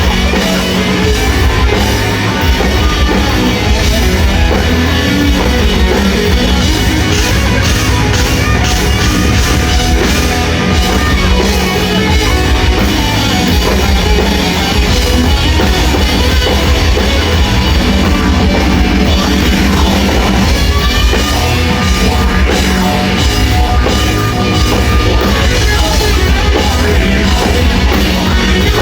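A live rock band playing loud, steady rock music with drum kit and guitars.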